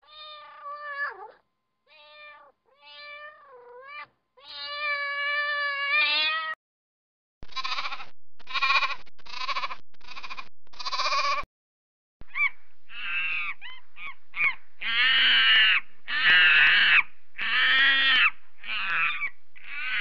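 Cat meowing several times, the last meow long, then goat kids bleating five times in a row. Further loud animal calls follow through the second half.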